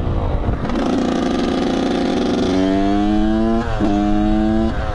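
Dirt bike engine under way, pulling through the gears. It settles after a drop in revs, then twice climbs slowly in pitch and falls sharply at an upshift, about two and a half and three and a half seconds in, with another drop near the end.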